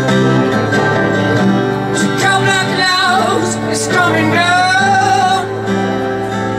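Live acoustic music: steady held low notes under a singing voice that glides up and down in pitch through the middle.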